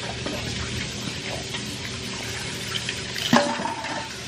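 Steady sizzle of battered fish frying in hot oil, with a brief louder sound a little after three seconds in as dried chiles go into the blender cup.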